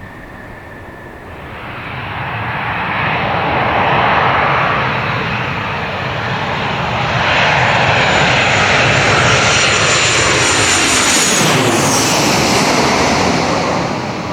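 Jet airliner passing low overhead: its engine noise swells over several seconds, and a high engine whine drops sharply in pitch as the plane goes over, then the noise begins to fade.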